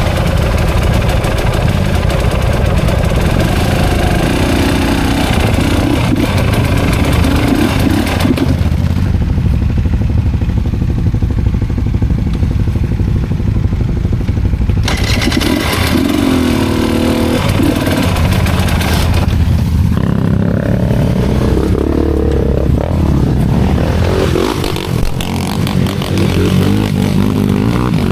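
Enduro dirt-bike engine running hard on a trail climb, its pitch rising and falling as the throttle is worked, with some clatter and scraping.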